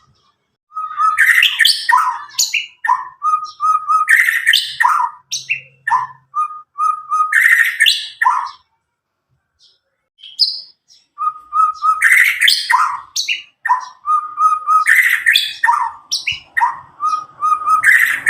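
A young white-rumped shama (murai batu), just out of its spotted juvenile plumage, sings loud, clear, varied phrases: quick runs of repeated short notes mixed with sweeping whistles. It sings in two long bursts, with a pause of about two seconds near the middle.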